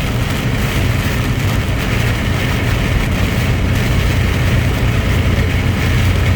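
Truck engine and road noise while driving: a steady low drone with an even hiss above it.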